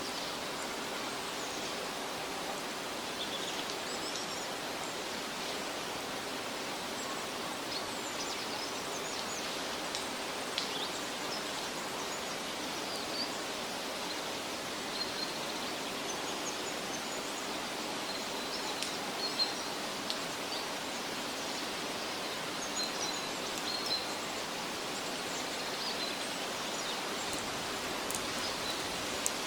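Steady outdoor forest ambience: an even hiss with small birds chirping now and then and a few faint light ticks.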